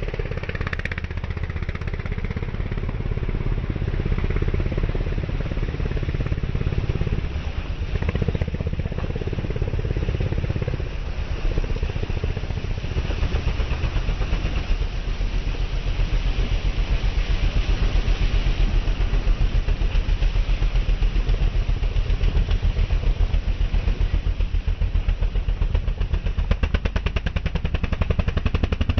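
Racing motorcycle engines running steadily, with a fast pulsing throb and a hiss over it, a little louder in the second half.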